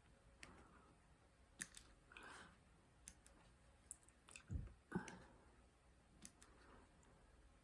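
Faint, scattered small clicks and taps from diamond painting work: resin drills and the drill pen tapping on the canvas and tray, with a couple of louder soft knocks around four and a half to five seconds in.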